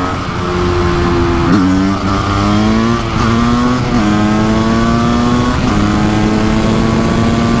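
Kawasaki KX500's big-bore single-cylinder two-stroke engine pulling hard under way. Its pitch climbs steadily, with quick drops about four times as gears are changed.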